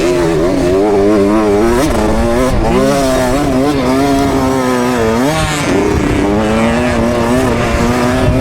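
KTM 65 SX two-stroke motocross engine being ridden, its pitch rising and falling with the throttle and a sharp dip and climb about five seconds in, heard from a helmet camera with wind noise.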